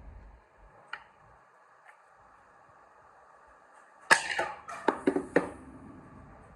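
A quick run of sharp hits or swishes, about half a dozen within a second and a half, starting about four seconds in after a quiet stretch.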